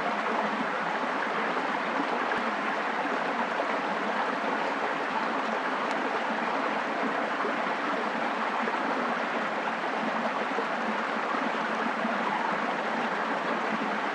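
Steady, even rush of water noise that holds at one level throughout, with a couple of faint ticks.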